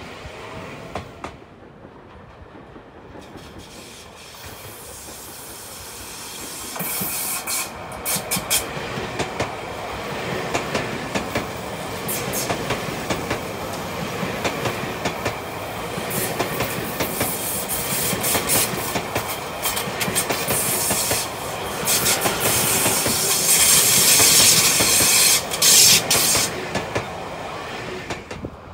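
Tobu 50000-series electric commuter train running past, its wheels clicking over the rail joints. It grows louder from about a quarter of the way in, is loudest near the end, then drops away.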